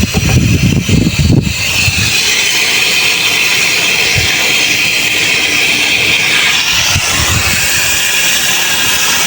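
Water rushing steadily with a strong hiss from a tap or valve opened on a pressurised water line, drawing down the pressure so that the pump's pressure switch cuts the motor in. Low rumbling knocks in the first second or so.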